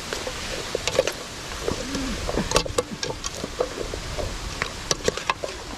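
Scattered sharp clicks and knocks over a steady low rushing background, with a few short faint pitched sounds in between.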